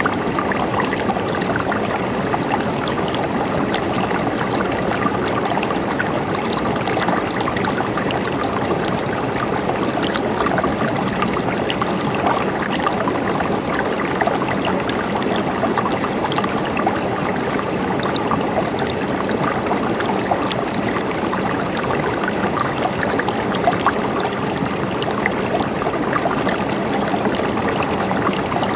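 Running water of a stream, flowing steadily and without a break.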